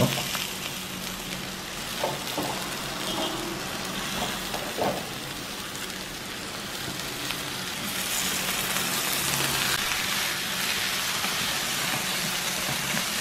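Onion-and-spice masala sizzling in a non-stick frying pan with liver strips added, with a couple of short knocks. The hiss gets a little louder from about eight seconds in as the pan is stirred.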